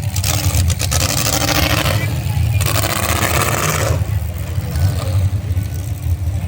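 Pulling truck's engine running loudly and steadily, with two bursts of hissing noise in the first four seconds.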